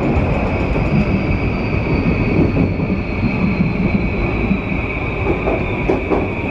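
Running sound of a JR East E235-0 series electric train with a Mitsubishi full-SiC VVVF inverter: a steady rumble of wheels and car body, and over it a steady high hum. A fainter whine falls slowly in pitch during the first half.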